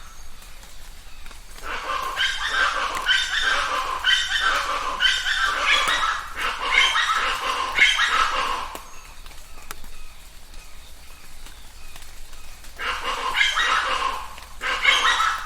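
Chachalacas calling in a loud, raucous chorus of harsh, rapidly repeated notes. The chorus breaks off a little past halfway, then starts up again near the end.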